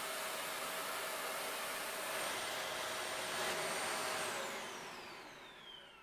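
Dyson Ball Animal 2 upright vacuum cleaner running with a steady rush of air and a high whine, then switched off about four seconds in, the whine falling in pitch as the motor spins down.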